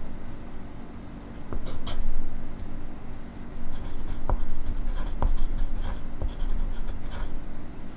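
Pencil writing on paper: scratchy strokes in short runs, with a few sharp ticks.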